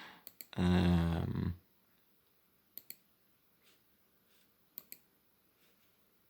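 A man's voice humming briefly for about a second, then computer mouse clicks: a quick pair near the middle and another pair about two seconds later, with a few fainter clicks between.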